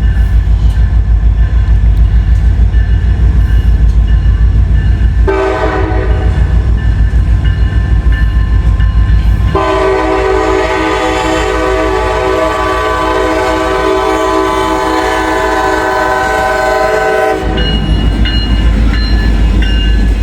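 Diesel locomotives passing close by with a steady, rapid low throb. A locomotive air horn starts about five seconds in, gets much louder at about ten seconds and is held long before cutting off near seventeen seconds. The locomotives are running light, a power move with no cars.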